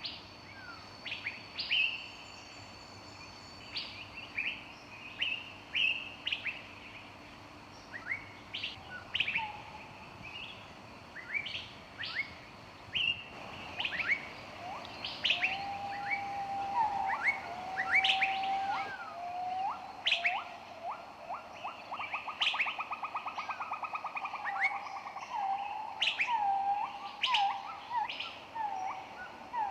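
Songbirds chirping in a forest: many short, sharp, high chirps repeat throughout. From about halfway a lower-pitched bird joins with whistled notes and, a little later, a fast trill.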